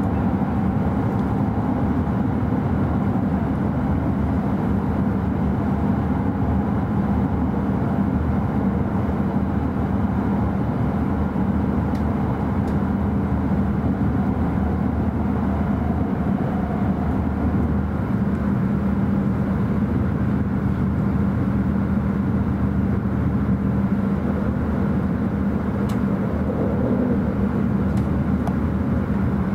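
Steady running noise inside the cabin of an E5 series Shinkansen: an even rumble with a constant low hum.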